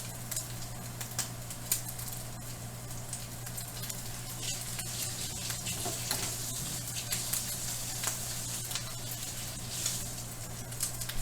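Bacon frying in a pan, sizzling with scattered sharp pops, nearly done, over the steady hum of the stove's range-hood fan.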